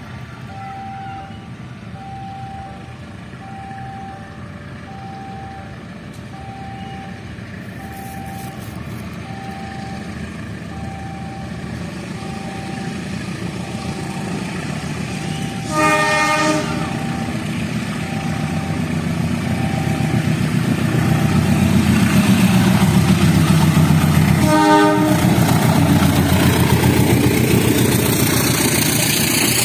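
Level-crossing warning bell beeping steadily as a train approaches, with rumbling that grows louder. The locomotive sounds two short horn blasts, about halfway through and again some nine seconds later, and the train's engine and wheel noise swell as it draws near.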